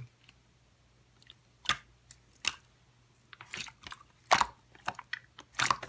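Slime being worked by hand, giving scattered sticky clicks and pops that come more often toward the end.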